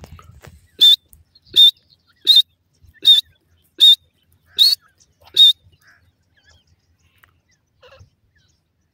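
Partridge (teetar) chick peeping: seven short, loud, high-pitched peeps in an even series about three-quarters of a second apart, then it stops.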